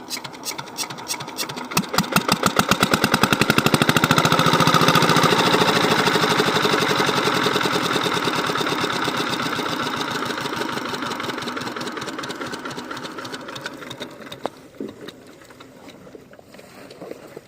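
Old Lister-type diesel engine of an irrigation water pump running with a rapid, even knocking beat. The beat quickens and grows loud over the first few seconds, then slowly fades away.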